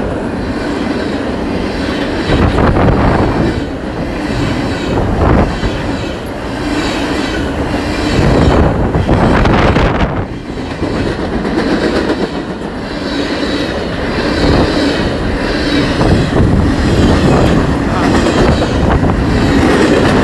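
Northbound freight train hauling wind turbine blades rolling past close by: a loud, continuous rumble of wheels on rail, with no let-up.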